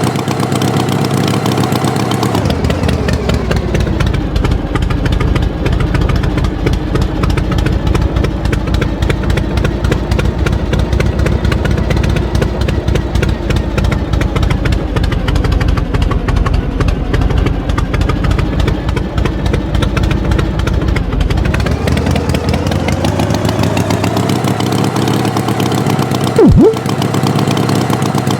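Tractor engine running steadily; its pitch drops about two seconds in and climbs back up near the end. A single sharp, loud pop cuts through near the end.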